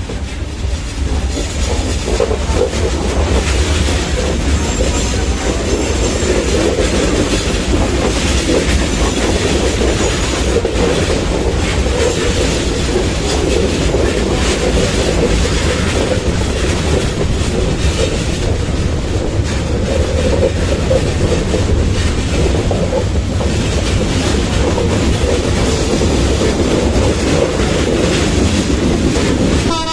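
Passenger train coaches running at speed, heard from an open coach window: a steady rumble and clatter of steel wheels on the track.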